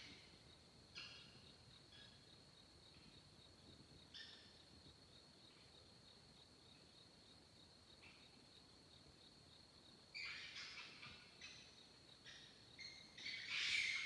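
Screeching animal calls: short raspy screeches at irregular intervals, several in quick succession about ten seconds in, and the loudest and longest, about a second long, near the end. A steady high insect drone runs underneath.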